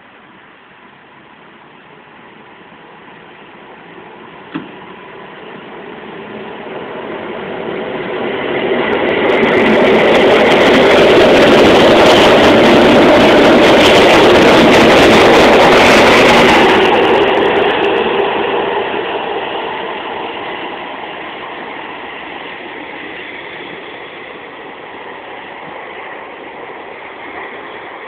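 SKM commuter train pulling out and passing close by. Its running noise builds steadily, is loud for about seven seconds, then fades as the train moves away. A single sharp click comes early on.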